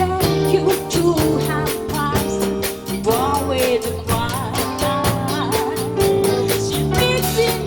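Latin fusion band playing live: a drum kit keeps a steady hi-hat pulse under a bass line, with a wavering, vibrato-laden melody line above.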